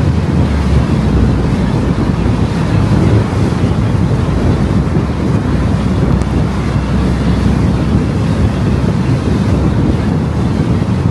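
Car driving along a road: steady tyre and wind noise with a deep low rumble.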